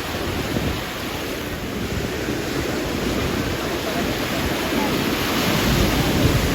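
Sea waves washing onto the beach, with wind buffeting the microphone; the sound grows a little louder and heavier near the end.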